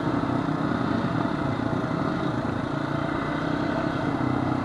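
Honda FourTrax quad's engine running steadily at a low, even speed, heard from the rider's seat.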